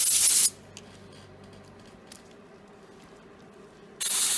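A short burst of hissing spray stops about half a second in. A quiet stretch with a few faint ticks follows, and the hissing starts again near the end.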